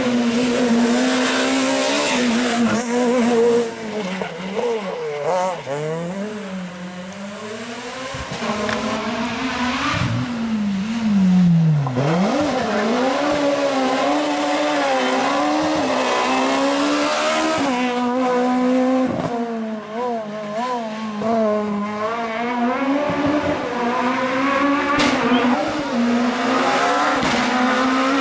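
Rally car engine revving hard, its pitch climbing and dropping again and again through throttle lifts and gear changes, with tyres squealing. It dips low and fades for a while about a third of the way in, then builds up again.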